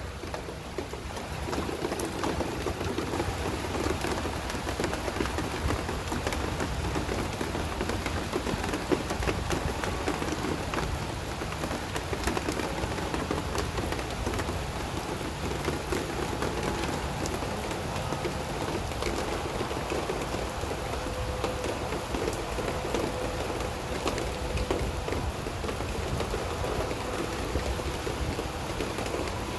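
Rain shower falling steadily, a dense hiss of drops with many small individual drop hits.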